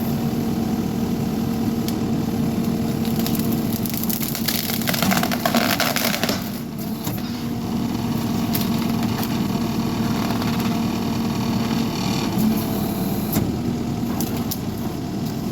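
Skid steer engine running steadily with a held humming tone. From about three to six and a half seconds in comes a dense stretch of crackling and snapping as the hydraulic tree shear cuts through a log.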